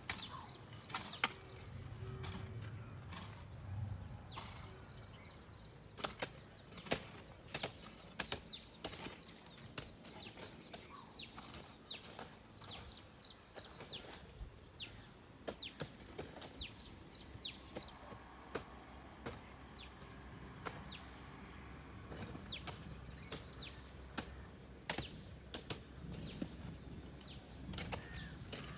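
Small birds calling in repeated short, falling chirps, with scattered sharp clicks throughout.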